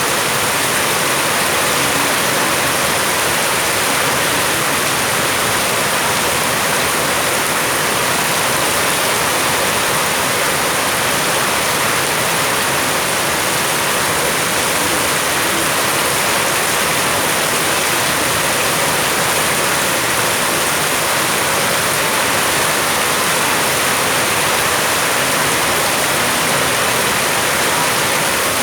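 Heavy rain falling in a steady, dense hiss that never lets up.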